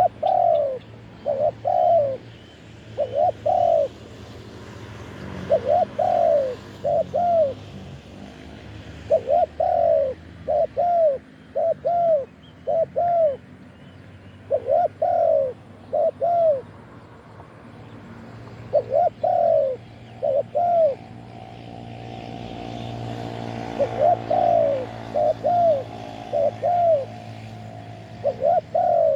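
Spotted dove cooing over and over, short arched coos in groups of two or three. A faint low drone swells in the background near the end.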